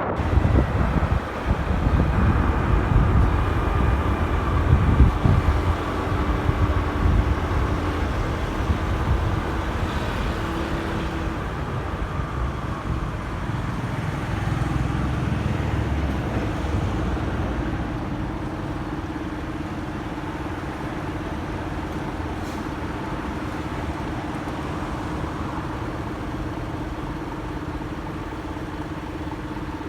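Motorcycle engine running under a rider, with low wind rumble on the microphone while moving. Past the middle the sound drops and settles into a steadier, quieter engine note.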